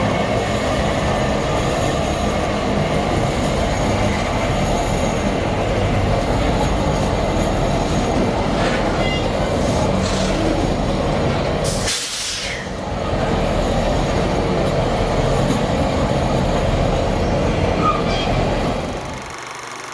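Freight train wagons rolling past on the rails in a steady, loud rumble, with a brief dip about twelve seconds in. The sound drops away shortly before the end.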